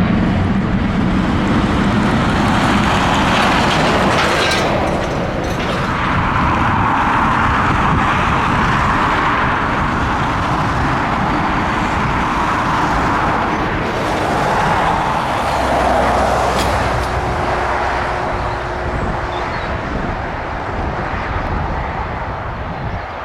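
Boeing 757 jet engines running: a steady, broad rush of engine noise that slowly fades toward the end.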